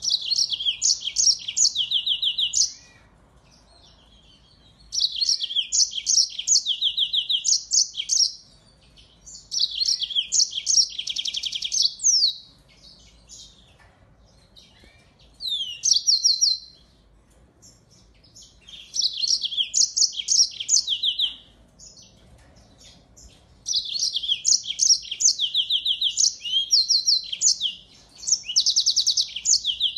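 Small finch-family songbird singing fast, high trilled song phrases in bursts of a few seconds, with short pauses between them; about seven phrases in all, the last running on past the end.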